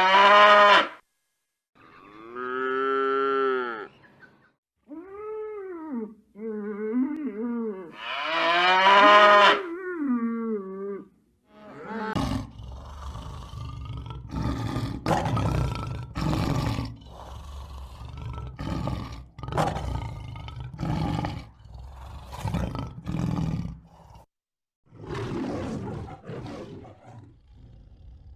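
A calf mooing: about six rising-and-falling calls. About 12 seconds in, a lion takes over with a long run of repeated roars.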